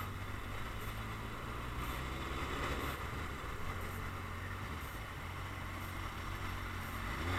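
Motorcycle engine running steadily while riding, with road and wind noise over it.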